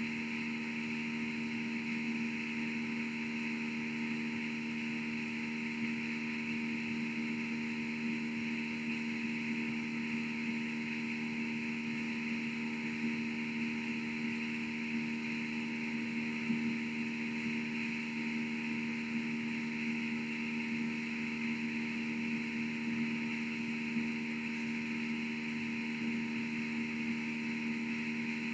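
Steady electrical hum with a layer of hiss from the sound system, unchanging throughout: the fault behind the stream's sound issues.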